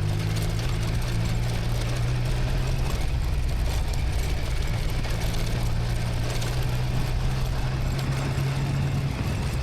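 Motorcycle engine running at steady revs, a low even hum under a constant hiss.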